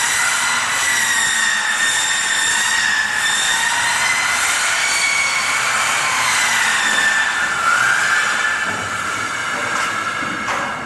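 A workshop machine running with a loud steady hiss and a high whine whose pitch drifts slowly up and down.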